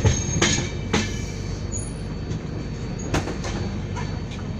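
Passenger train running, heard from inside a coach: a steady low rumble with sharp clacks of the wheels, three in the first second and another about three seconds in.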